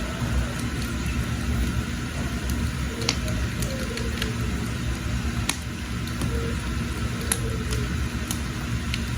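Firewood fire burning under a pot of water: a steady low rumbling roar with scattered sharp crackles and pops.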